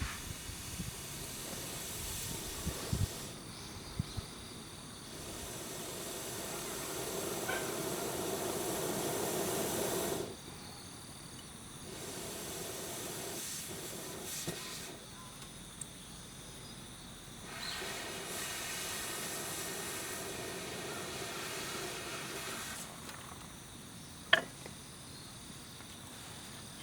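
Wood fire in a titanium fire pit giving a rushing hiss that swells for several seconds at a time, three times, with quieter gaps between, and one sharp crackle near the end.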